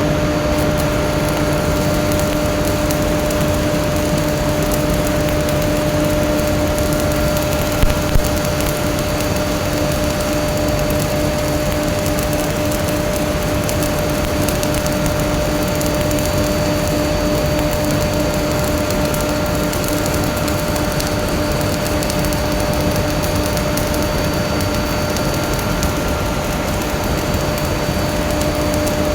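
Stick (SMAW) welding arc on a pipe joint, crackling steadily over a constant hum, with two short louder pops about eight seconds in.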